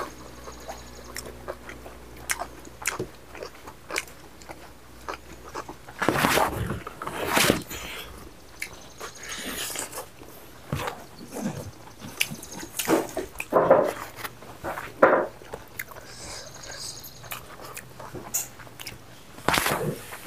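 Close-miked chewing and biting of pork and rice eaten by hand: scattered wet mouth clicks and smacks, with several louder bursts.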